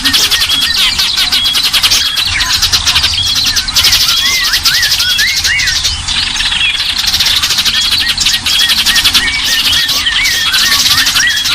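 A mix of small songbirds calling together, used as a bird-lure recording: a dense, rapid chattering trill with short high whistled notes repeated over it and quick rising-and-falling chirps.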